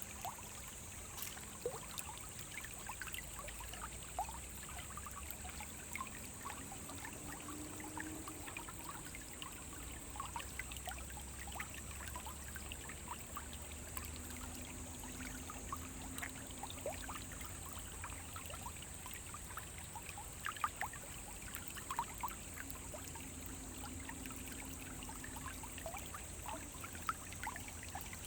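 Small forest brook running over stones: a steady trickling and babbling, with many small irregular splashes and plinks.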